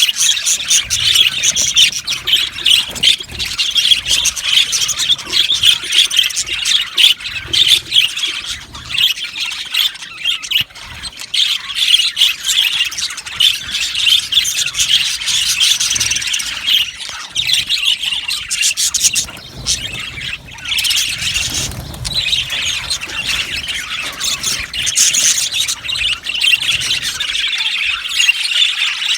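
A flock of budgerigars chattering, chirping and squawking together without a break, many birds calling over one another.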